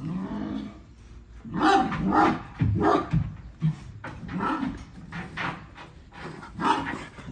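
Dog barking repeatedly, a string of short barks spaced about half a second to a second apart.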